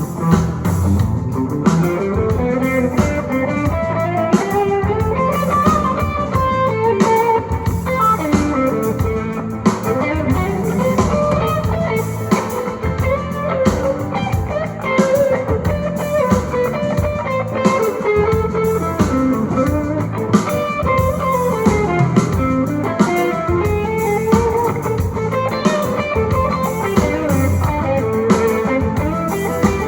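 Blues-rock music with a lead electric guitar playing melodic runs over bass and drums, played back through a pair of Infinity Reference RS2000.1 passive bookshelf speakers (1/2-inch soft-dome tweeter, 5-inch polypropylene woofer).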